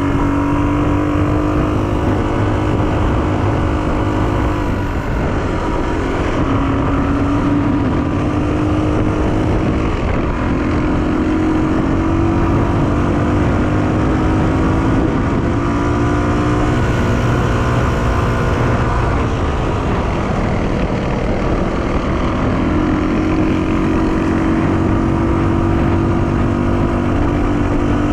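Honda XR250R's single-cylinder four-stroke engine running under way, its note holding steady, then dropping away and picking up again several times as the rider comes off and back onto the throttle.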